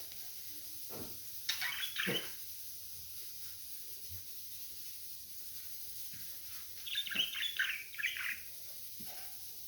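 Budgerigars chirping: a few short chirps about a second and a half in, then a quick run of chirps around seven to eight seconds in.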